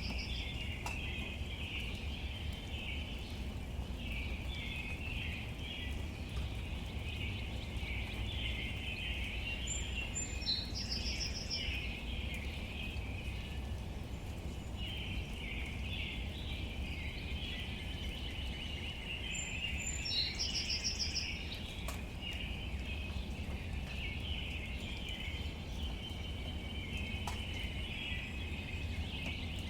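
Outdoor nature ambience: a steady dense chorus of chirping birds, with one short high call repeating about every ten seconds, over a low steady rumble.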